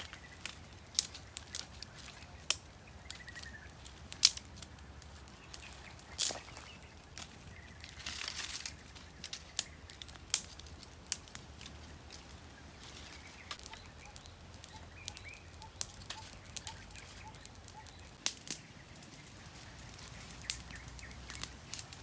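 Small campfire of dry twigs and sticks crackling, with sharp, irregular pops and snaps, some of them loud, and a short rustling burst about eight seconds in.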